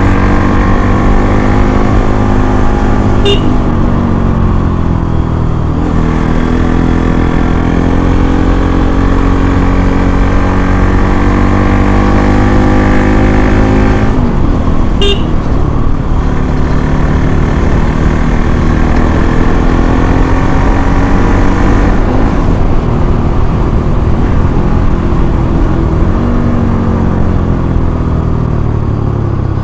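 Bajaj Pulsar NS200's single-cylinder engine on its stock exhaust, pulling hard through the gears: the pitch climbs steadily in each gear, then drops at each upshift, about three times. Two brief horn toots sound, a few seconds in and about halfway.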